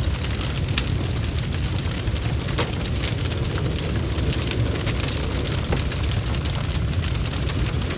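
Bonfire crackling, with many sharp irregular pops and snaps over a steady low rumble of the flames.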